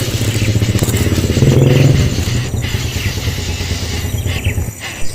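An engine running with a rapid, even pulse, then cutting off about a second before the end, followed by a short knock.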